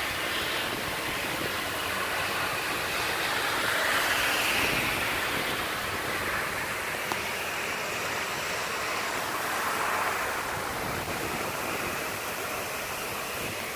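Heavy rain pouring down in a steady rush, swelling louder about four seconds in and again about ten seconds in.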